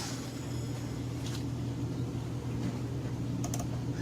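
A steady low hum, with faint light clicks about a second in and again near three and a half seconds.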